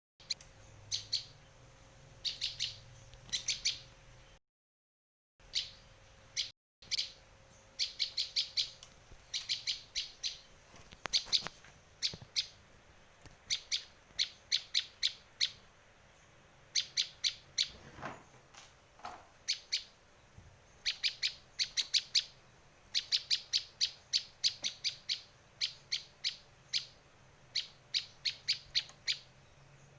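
Prenjak lancur (prinia) song: runs of sharp, rapid high chirps, several notes to a run, repeated over and over with short pauses between runs.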